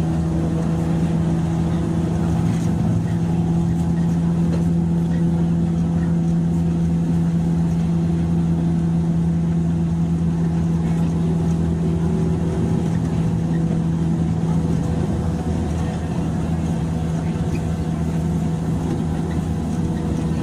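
Running noise heard inside the motor car of a JR 103 series electric train: a steady low hum holding one pitch, over a constant rumble of wheels on rail.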